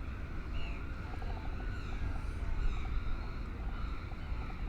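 Outdoor ambience: a steady low rumble with faint distant voices and a few faint chirps.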